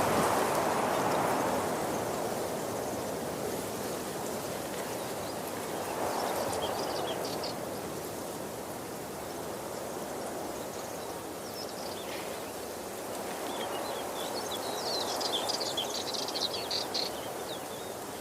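A waterfall's water rushing steadily, swelling and easing slightly. Birds chirp faintly over it twice, about a third of the way in and again near the end.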